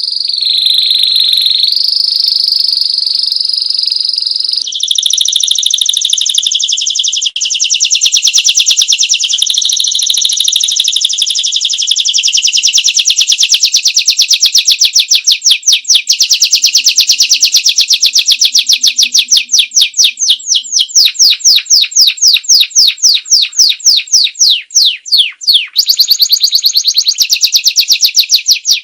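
Domestic canary singing a long, unbroken song of high-pitched rolling trills and rapidly repeated notes. The pace of the notes changes from phrase to phrase.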